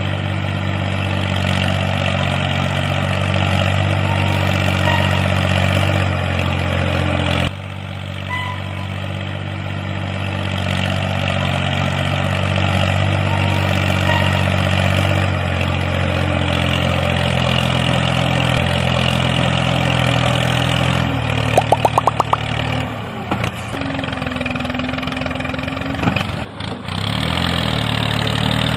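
Small engine of a homemade mini tractor running steadily, with an abrupt change in its sound about seven seconds in and a brief unsteady stretch with quick rising chirps about three-quarters through.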